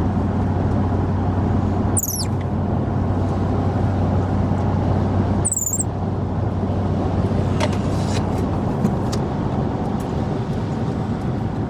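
Steady vehicle road noise: a constant low engine and tyre drone with a hum underneath. Two brief high-pitched falling squeaks come about two seconds and five and a half seconds in.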